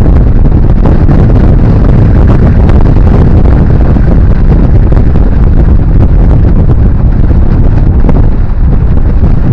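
Strong wind buffeting the microphone, a loud, steady low rumble with no break.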